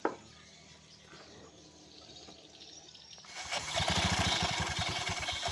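A short click at the start, then about three seconds in a Honda Vario scooter's engine is started and runs with an even pulse. It is run to bring out the rough noise from its CVT housing, where the clutch has been found not spinning freely.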